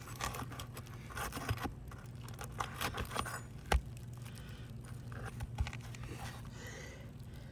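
Asphalt shingles being scraped and rustled as nails are worked out from underneath them with a roofing snake and hammer, with scattered clicks and a sharp knock a little under four seconds in. A low steady hum runs underneath.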